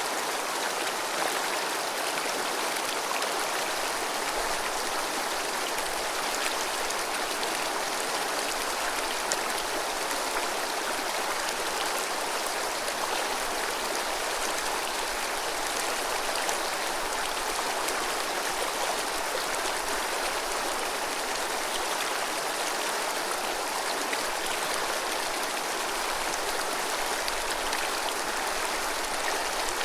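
Clear snowmelt mountain stream, the Azusa River, babbling steadily with an even rush of running water.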